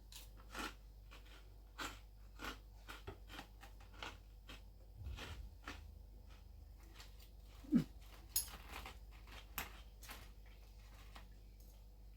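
Close-up chewing and crunching of crispy Yorkshire pudding, with scattered sharp clicks and a short low sound about eight seconds in.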